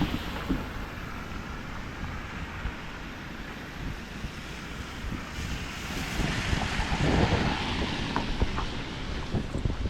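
Steady rush of storm floodwater mixed with wind buffeting the microphone, swelling louder about seven seconds in.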